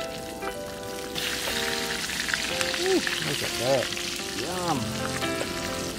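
Panko-crumbed jack mackerel frying in hot oil in a small pan. The sizzle starts up sharply about a second in and runs on as the piece is turned with a wooden spatula. Background music plays underneath.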